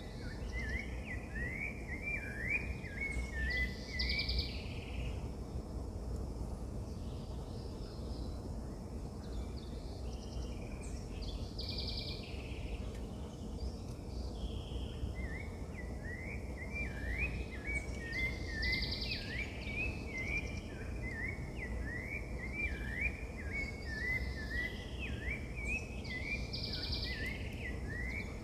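Birds singing: one bird repeats quick chirping notes in long runs, and another call comes back about every seven or eight seconds, over a steady low rumble of outdoor background noise.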